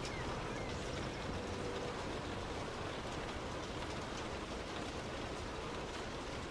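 Heavy rain falling on a moving car, with steady tyre and road noise on the wet road underneath and a few faint drop ticks.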